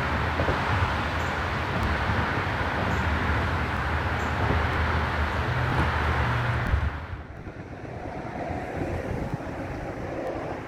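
Road traffic rumble, a steady low drone under a wash of noise, dropping away about seven seconds in.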